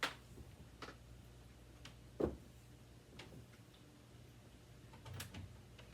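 A few scattered light clicks and knocks from the upright vacuum cleaner being handled while switched off, with one louder knock about two seconds in.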